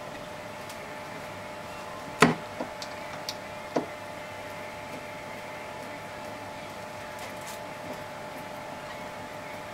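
Wooden house parts and screws being handled: one sharp knock about two seconds in, a few small clicks, and a second knock near four seconds, over a steady faint hum.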